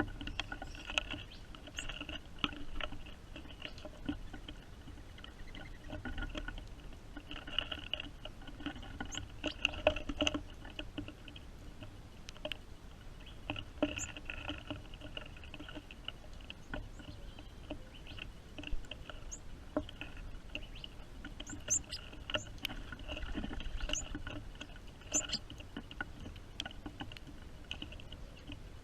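Rain pattering and dripping, with many small irregular ticks.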